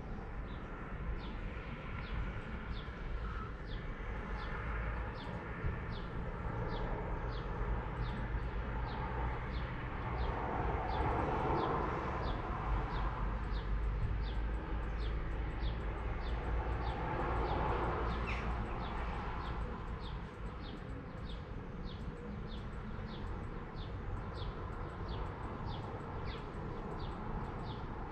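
A bird calling one short, high note over and over, about three calls every two seconds, over a steady low outdoor rumble. The background swells louder twice near the middle.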